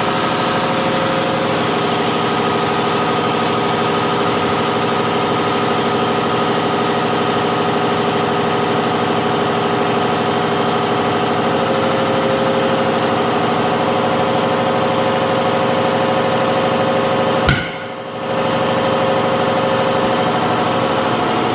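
Engine idling steadily, with a sharp click and a brief drop in the sound about seventeen and a half seconds in.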